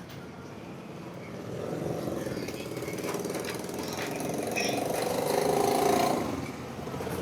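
Motorcycle engine running, growing louder from about a second and a half in, loudest near the end, then easing off.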